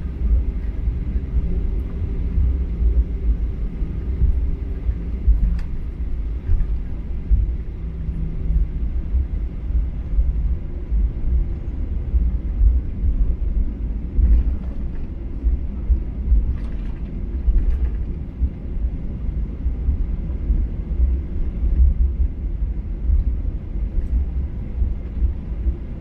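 Low, steady rumble inside the cabin of a Boeing 737-800 taxiing on the ground, its engines running at low power, with a faint hum above the rumble.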